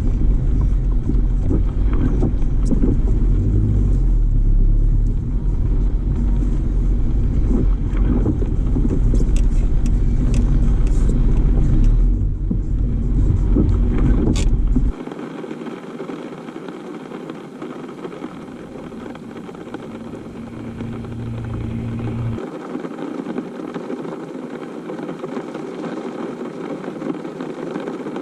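Road noise inside a moving car: a steady low rumble of engine and tyres. About halfway through, the low rumble drops away and a quieter steady hiss remains.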